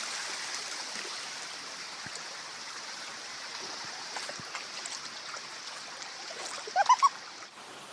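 Floodwater flowing with a steady rushing noise, with a few short high-pitched rising sounds about seven seconds in; the rushing drops off abruptly just before the end.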